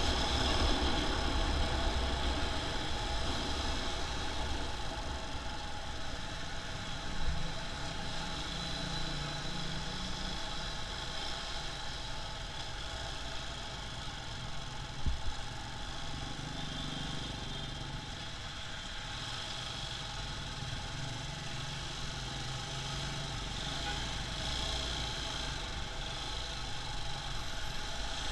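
Steady engine rumble and road noise from riding a motorcycle in traffic, with two brief knocks about 7 and 15 seconds in.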